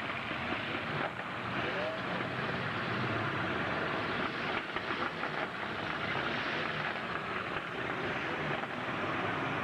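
Engines of demolition-derby trucks running, a steady dense din, with a few sharp knocks around the middle.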